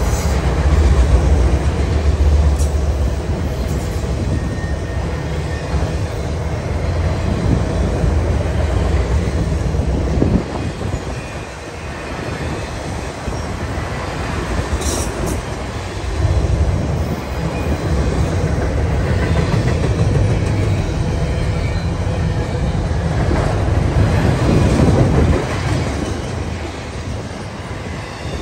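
CSX intermodal freight train's empty autorack cars, then double-stack well cars, rolling past on steel wheels, a continuous rumbling roar. The low rumble is heaviest at first and eases about ten seconds in, then picks up again.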